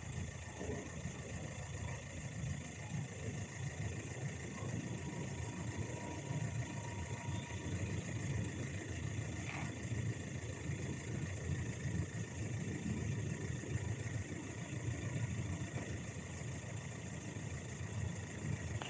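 A steady low engine rumble, running at an even level throughout, with a faint steady whine higher up.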